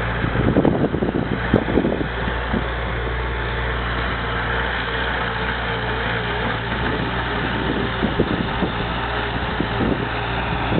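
Bobcat skid-steer's diesel engine running steadily at a low speed, with a few short knocks in the first couple of seconds.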